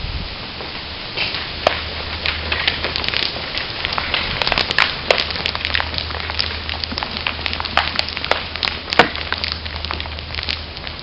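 Acorns falling from oak trees, hitting below as a quick irregular patter of sharp ticks and knocks, a few of them much louder than the rest. A steady low hum runs underneath.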